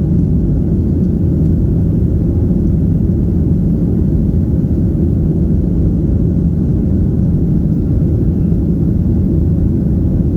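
Steady low rumble of a Boeing 737's engines and airflow heard inside the cabin in flight after takeoff.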